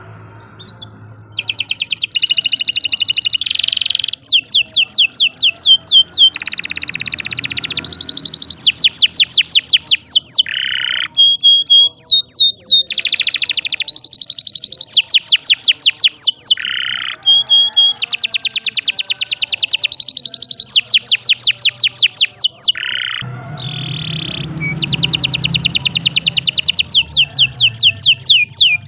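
Domestic canary singing a long, continuous song of fast trills and rolls: rapid rows of sweeping notes, some held high notes, in phrases separated by brief pauses.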